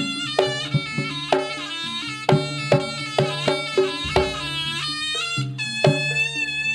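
Javanese jaranan-style ensemble music: a slompret (reed shawm) plays a wavering, ornamented melody over regular drum strokes and a held low note.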